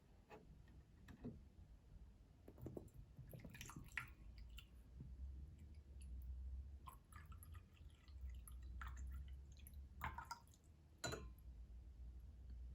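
Faint, scattered small clicks and drips: a small Yixing clay teapot being handled, with water dripping, over a steady low hum.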